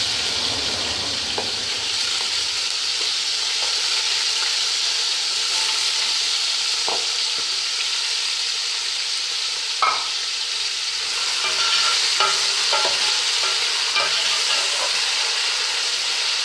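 Julienned carrots frying in hot oil in an aluminium degchi: a steady sizzle, with a perforated metal skimmer scraping and knocking against the pot as the carrots are stirred, the knocks coming more often in the second half.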